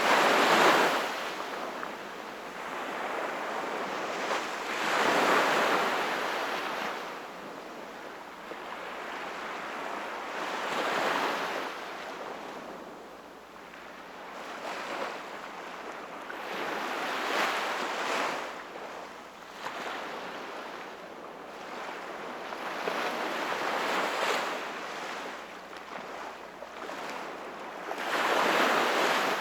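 Sea waves breaking and washing up the shore, a surge of surf about every five to six seconds, the loudest ones near the start and near the end.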